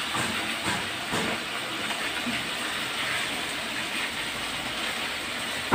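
Potato pieces frying in mustard oil in a pan, a steady sizzle, with a few light clinks of kitchenware near the start.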